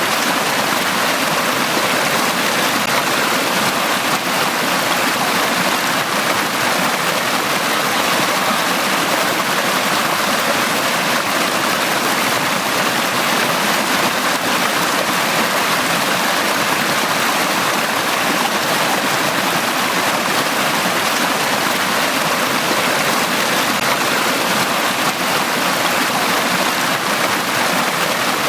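Forest stream running over rocks, a steady rushing and babbling of water.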